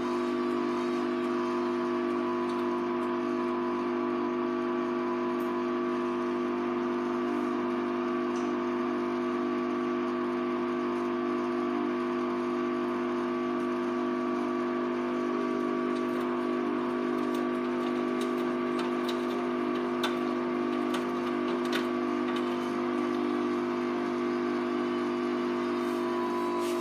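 Hoover Vision Tech VT 914 D22X washing machine running mid-cycle on a Mixed 40°C wash: a steady hum with a few light clicks.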